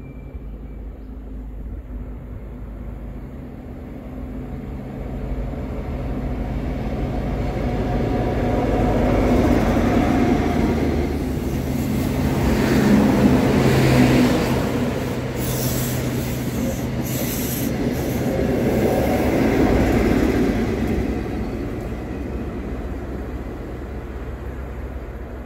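Network Rail Test Train, an HST set with a Class 43 diesel power car at each end, passing close by. The engine note and wheel noise build to a peak as the leading power car and coaches go past, swell again about twenty seconds in as the rear power car passes, then fade. There are brief high-pitched squeals from the wheels partway through.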